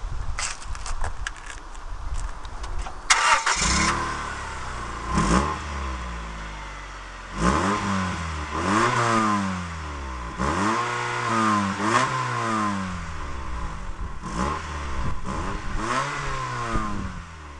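A few clicks, then an Acura Integra's four-cylinder engine starts about three seconds in and is revved repeatedly, each rev rising and falling in pitch, its exhaust sounding through a hole in the muffler.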